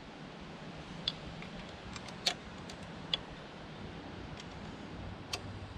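A few light, sharp metallic clicks of hand tools on the rocker arm as a valve-lash adjuster on a Honda BF30A outboard is nudged and its locknut tightened. The clicks come one at a time, roughly a second apart, over a faint steady low hum.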